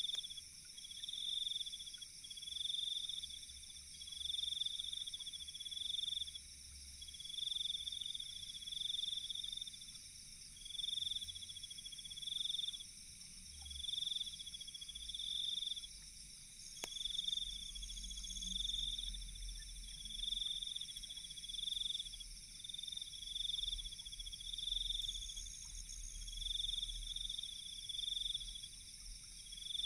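Night insects chirping in repeated pulsed trills about a second long and roughly one and a half seconds apart, over a steady high-pitched insect drone. A single sharp crack comes about halfway through.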